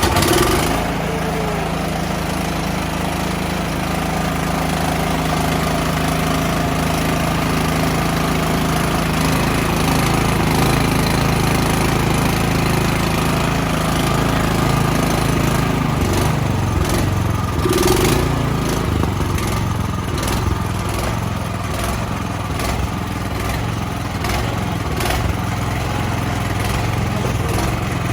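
Small single-cylinder gas engine of a new snow blower running steadily just after its first electric start; its low note shifts about two-thirds of the way through, then settles again.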